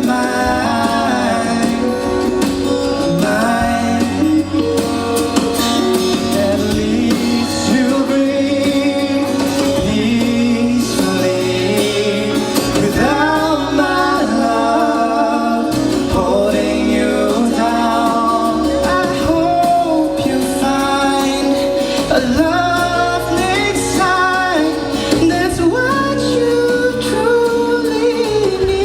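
Live band playing a pop-rock song: a singer carries a bending melodic line over guitar and a steady low bass.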